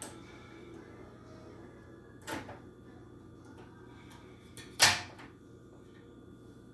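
Toy packaging being handled while it is opened: two short knocks or clunks, a softer one a little over two seconds in and a louder, sharper one near five seconds.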